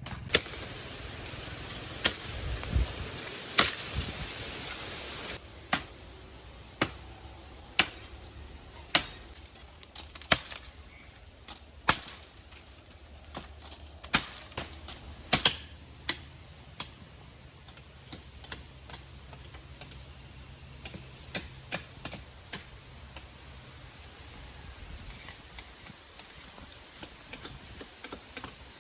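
Irregular sharp knocks, about one or two a second and uneven in strength, over a steady hiss of rain that drops in level about five seconds in.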